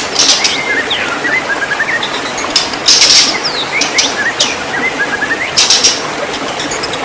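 White-rumped shama singing: sweeping whistled notes that lead into quick runs of short notes, twice over, mixed with harsh chattering bursts. A steady hiss runs underneath.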